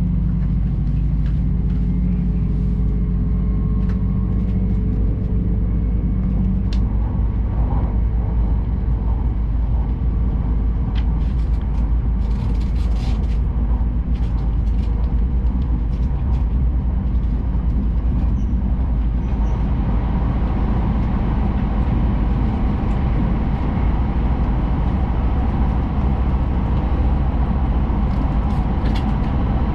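Steady running noise of a Tohoku Shinkansen Hayabusa train at speed, heard inside the passenger cabin: a deep continuous rumble with a few faint clicks. The noise grows fuller about two-thirds of the way through.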